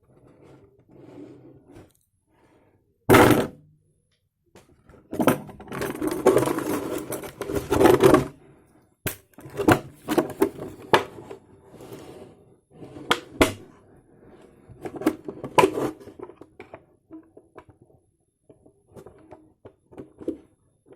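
Plastic five-litre bottle knocking, scraping and crackling: a sharp knock about three seconds in, a dense stretch of crinkling from about five to eight seconds, then scattered clicks and knocks with quieter rustling.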